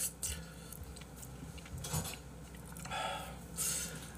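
A person chewing a mouthful of braised monkfish, with a few soft, wet mouth sounds now and then.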